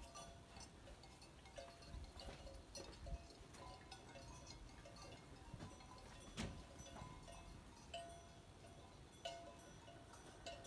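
Faint, irregular clinking of livestock bells, short metallic tones that recur every second or so, with a few light clicks.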